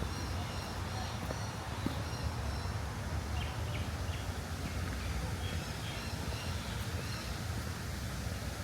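Birds calling in series of short, repeated high chirps over a steady low background rumble.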